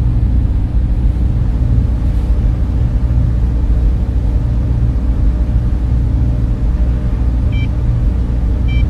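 Server room machinery running: cooling fans make a loud, steady low hum with a few constant tones in it. Two brief high tones come near the end.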